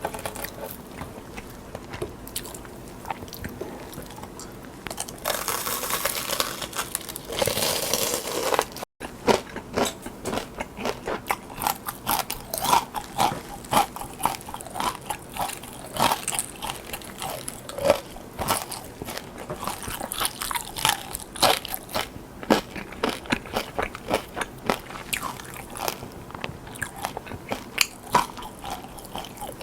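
Close-miked biting and chewing of crisp food, with many sharp crunches. A stretch of hiss-like noise comes about five seconds in, then a brief dropout, then the crunching goes on.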